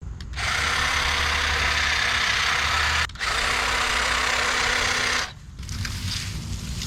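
Gas-powered leaf blower running: a loud rush of air over the small engine's steady drone, broken off abruptly twice, leaving a quieter engine drone near the end.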